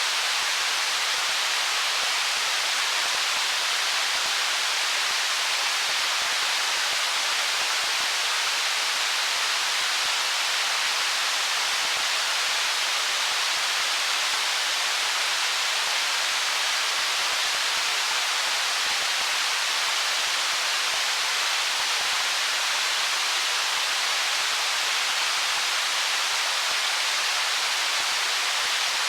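Stream water flowing over stones, a steady, even rush with no separate splashes or changes.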